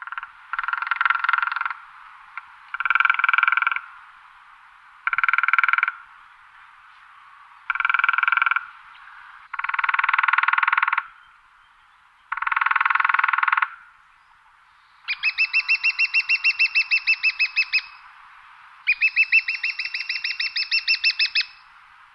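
Woodpecker drumming: six quick rolls of beak strikes on wood, each about a second long and coming every two to three seconds. Near the end come two longer, slower rolls of about three seconds each, with distinctly separate pulses and a ringing pitch.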